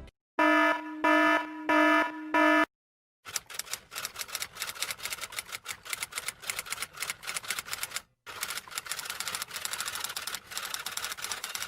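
Four short electronic beeps in a row, like an alarm clock sound effect. Then a typewriter typing fast: rapid irregular key clacks with a brief pause about two-thirds of the way through.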